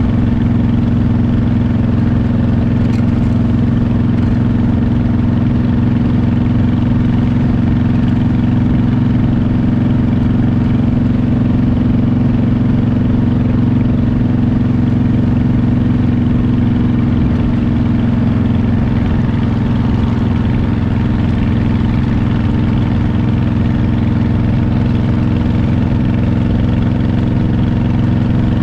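Motorcycle engine running at a steady cruising speed, a constant drone that holds the same pitch throughout.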